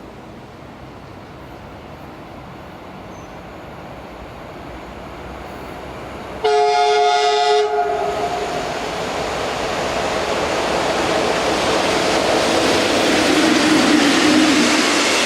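A train approaching, its running noise growing louder; about six seconds in, its horn sounds once for about a second. The noise of the passing train then swells and stays loud.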